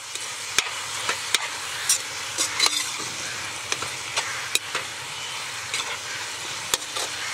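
Chopped goat fat frying with a steady sizzle in a kadai while a perforated metal spatula stirs it, the spatula clicking and scraping against the pan at irregular moments.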